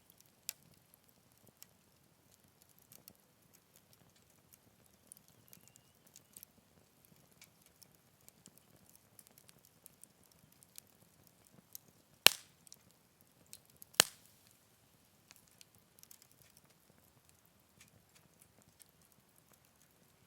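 Wood fire crackling softly with scattered small ticks, and two loud sharp pops about twelve and fourteen seconds in.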